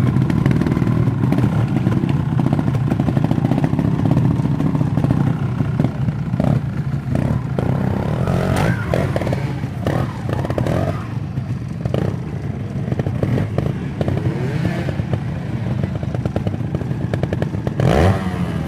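Trial motorcycle engine running, with several sharp knocks and clatter over it, the loudest knock near the end.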